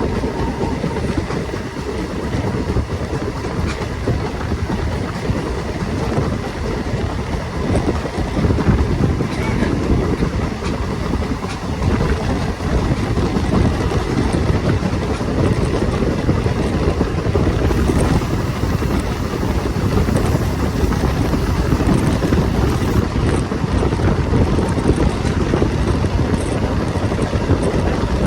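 A passenger train running along the track, heard from on board: a steady rumble of wheels on rails with wind noise on the microphone.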